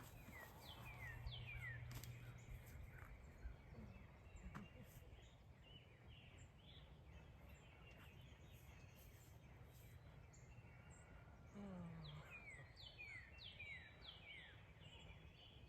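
Faint wind noise with a bird calling a short series of about five quick falling notes at the start, repeated about twelve seconds in.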